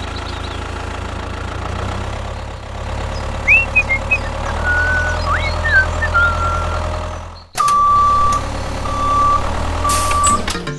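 A small vehicle engine running steadily. After an abrupt break about seven and a half seconds in, a reversing alarm beeps three times over the engine.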